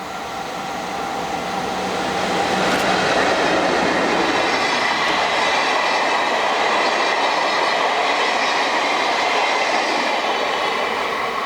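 EF64 electric locomotive and four old-type passenger coaches passing close by on the rails. The sound swells about two seconds in, holds loud for several seconds while the train goes past, and fades near the end.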